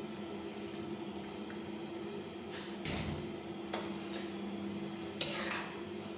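Metal cooking utensils knocking and clattering against a pan, a few separate knocks with the loudest, ringing one about five seconds in, over a steady low hum.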